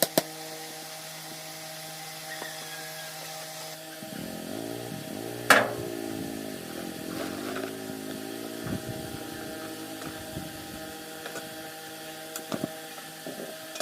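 A motor running with a steady hum. About four seconds in, its pitch starts to waver up and down as if under changing load. A single sharp knock comes about a second and a half later, and small knocks are scattered through the rest.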